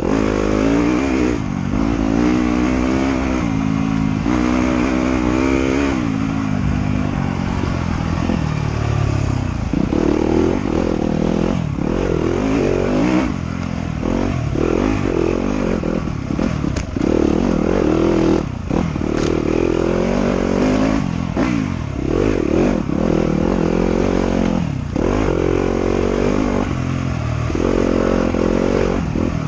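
Off-road motorcycle engine running on a trail, its pitch rising and falling over and over as the throttle is worked and the gears change. Occasional knocks and rattles come through over the engine.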